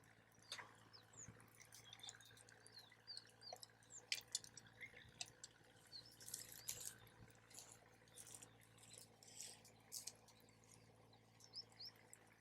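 Faint crackling of a wood campfire: irregular small pops and snaps, a few of them sharper.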